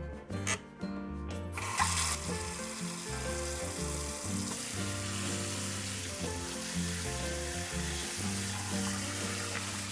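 Shrimp start sizzling about a second and a half in, a steady frying hiss over background music.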